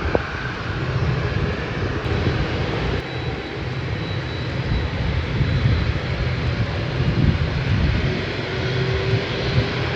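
Jet airliner's engines at the airport, a steady heavy rumble with a faint high whine running through it.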